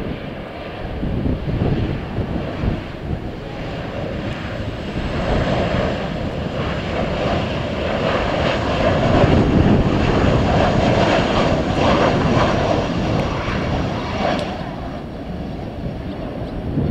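Airliner passing low overhead on final approach to land, its engine noise swelling to a peak around the middle and easing off toward the end.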